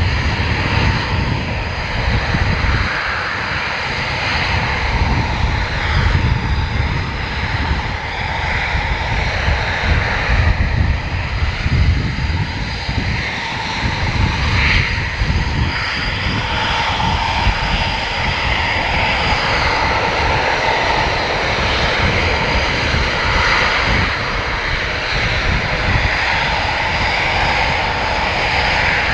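Military fast-jet engines running loudly and continuously: a dense steady rush with a deep, rumbling low end and no clear rise or fall.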